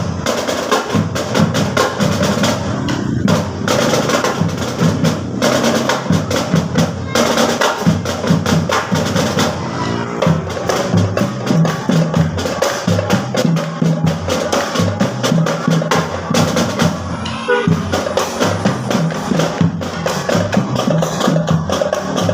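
School marching drum band playing, with snare and bass drums beating a steady, busy rhythm and drum rolls.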